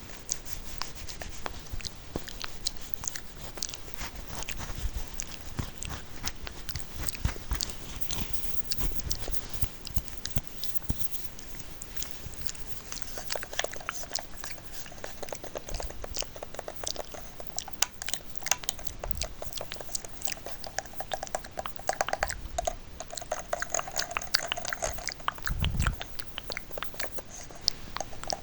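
Close-miked ASMR trigger sounds: a dense run of small clicks and crackles, turning from about halfway through into quick ticking with a hollow ring to it.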